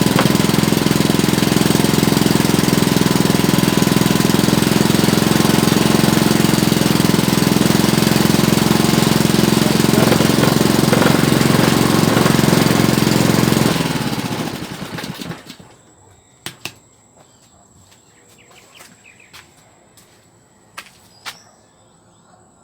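Honda GC160 single-cylinder overhead-cam small engine running steadily, now starting and running after a hard-start repair. About 14 seconds in it is shut off and winds down over a couple of seconds. A few faint clicks follow.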